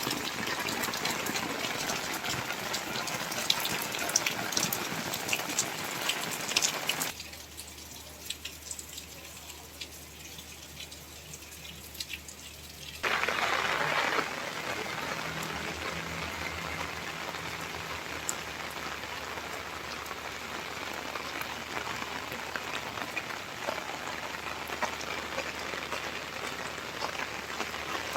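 Rain falling, a dense patter of drops hitting surfaces. About seven seconds in the sound drops suddenly to a quieter hiss, and some six seconds later the full rain sound returns just as abruptly.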